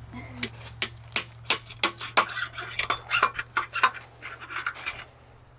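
Steel engine parts clinking and tapping against each other: bolts and main bearing caps being handled and rocked loose on a Cummins diesel block, in a quick irregular series of sharp clicks over a steady low hum.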